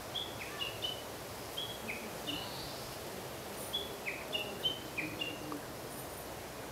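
Small birds chirping: short, high notes scattered in irregular clusters, some dropping slightly in pitch, over a steady background hiss.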